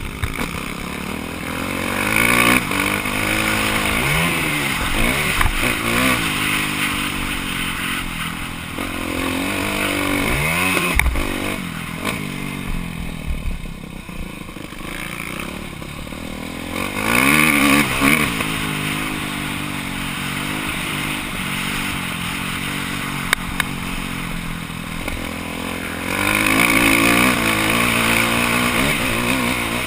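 Motocross bike's engine heard on board, revving up and dropping back again and again as the rider works the throttle, loudest in surges about two seconds in, past the middle and near the end.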